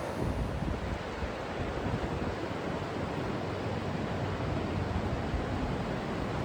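Steady rush of flowing river water, with wind buffeting the microphone in low, uneven gusts.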